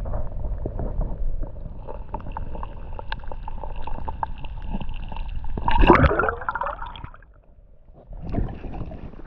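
Creek water sloshing and gurgling as it is stirred up close by, with many small knocks. There is a louder churning gurgle about six seconds in.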